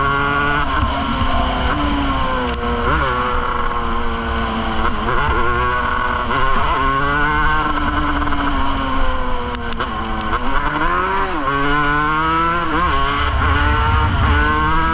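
Yamaha DT200's single-cylinder two-stroke engine running under way, its pitch climbing and dropping again several times as the throttle is worked.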